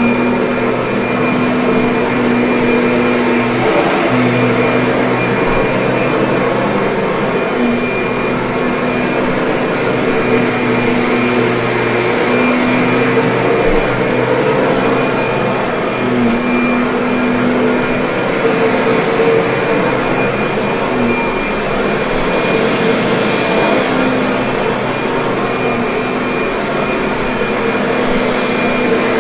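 Kirby upright vacuum cleaner running continuously: a loud, steady motor drone with a humming pitch that wavers slightly now and then.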